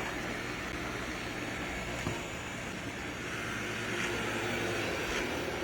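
Roborock S7 robot vacuum running, its suction motor and brushes making a steady hum and hiss.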